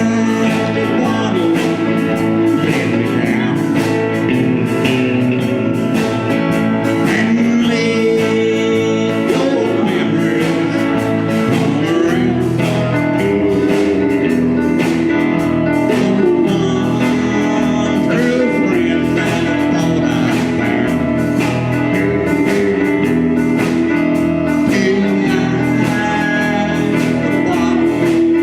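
Band music with guitar and singing; the bass line drops lower about 12 seconds in.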